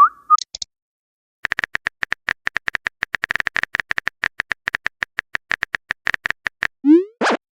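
Phone keyboard typing sound effect: a long, irregular run of short clicks, then a quick rising pop near the end as a chat message is sent.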